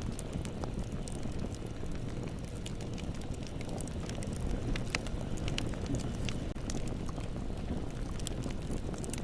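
Bonfire burning: a steady low rumble of flames with many irregular sharp crackles and pops from the burning wood.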